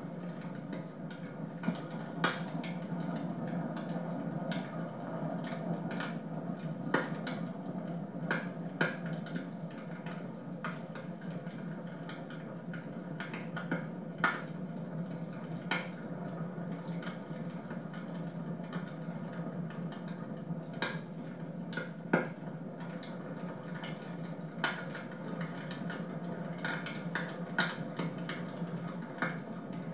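Wood fire burning in a fireplace: a steady low rush of flames with irregular sharp crackles and pops every second or two.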